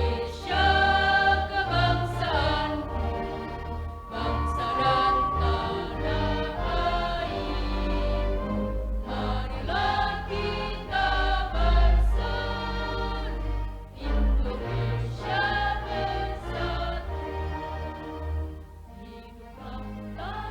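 A choir singing with musical accompaniment and a strong bass line.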